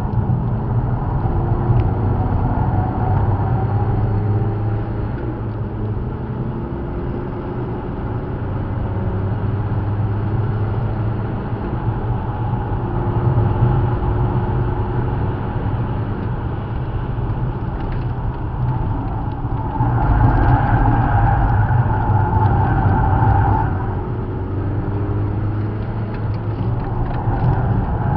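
Car engine heard from inside the cabin while lapping a race track, its revs rising and falling through the gears. About twenty seconds in there is a louder stretch with a higher tone that lasts a few seconds.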